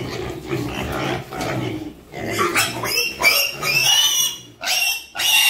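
Young pig grunting, then squealing loudly about two seconds in: a string of high, wavering squeals with short breaks between them, the protest of a pig being held for ear-tagging.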